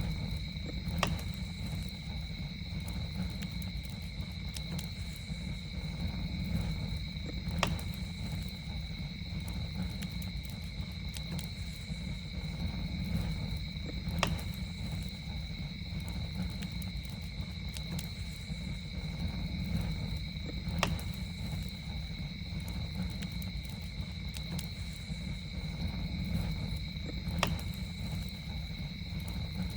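Campfire burning with a steady low rumble and a sharp pop about every six and a half seconds, over a steady high-pitched drone of night insects.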